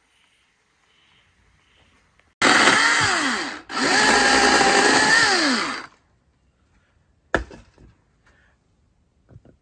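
A small motor run twice, for about a second and then about two seconds, its pitch rising as it spins up and falling as it winds down. A single sharp click follows a second or so later.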